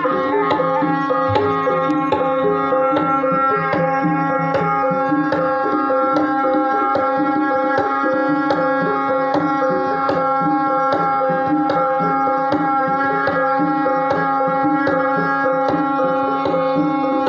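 Javanese gamelan music accompanying an ebeg dance: a long held tone over steady, even drum strokes, about three a second.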